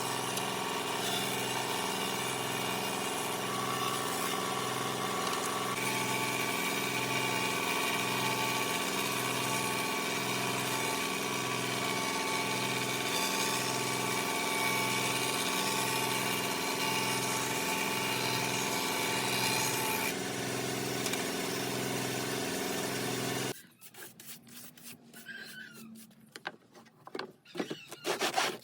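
A woodworking power tool's motor running steadily at a constant speed, its hum throbbing slowly and regularly. About 23 seconds in it stops abruptly and is replaced by quieter, irregular rubbing strokes on wood.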